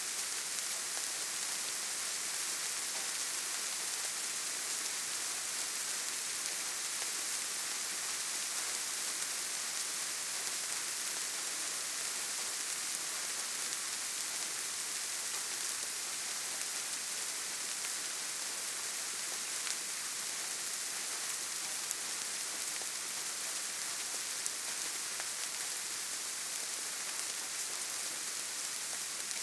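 Steady rainfall: an even hiss of rain on leaves and ground, with occasional louder individual drop ticks.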